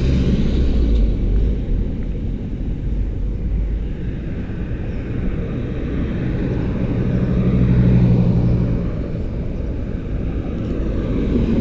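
Road traffic passing: a steady low rumble, with one vehicle's engine hum swelling to its loudest about eight seconds in and then fading away.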